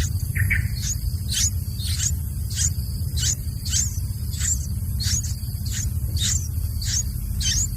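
Yellow-vented bulbul chick calling: a steady run of short, high chirps, each dropping sharply in pitch, about two a second, over a low rumble.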